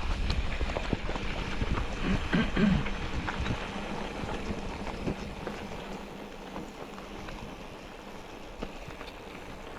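A vehicle travelling over a rough, stony track: low rumble and road noise with many small rattles and knocks. It grows quieter about halfway through.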